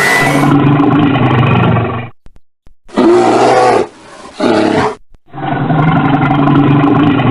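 A large animal roaring: several deep, drawn-out calls in short separate clips, with brief silences between them.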